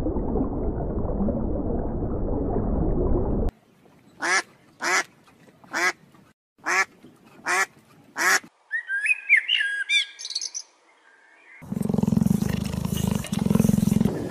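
A steady rushing water noise, then greylag geese honking six times at even spacing, followed by a cluster of short, higher chirping bird calls. Near the end comes a loud, rough low sound in two long stretches.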